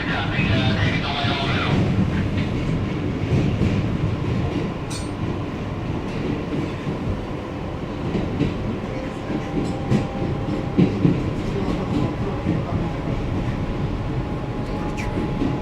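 Interior of an R160B New York City subway car running on the track: a steady rumble of wheels on rail with scattered clicks of rail joints. A thin, steady whine joins in about halfway.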